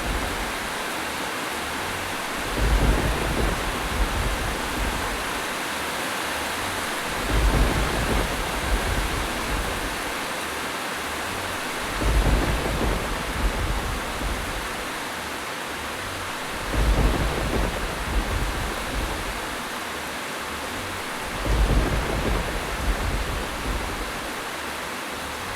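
Steady rain hissing, with low rumbles of thunder swelling and fading at even intervals about every five seconds, five times.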